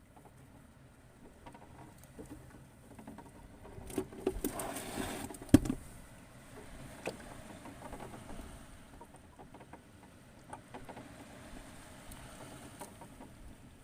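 Scattered small clicks and rustles, with a burst of splashing water about four seconds in that ends in one sharp knock.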